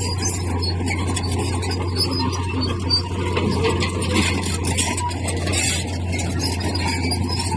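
Crawler bulldozer running under load, its diesel engine a steady low drone, with high metallic squealing and clatter from the steel tracks.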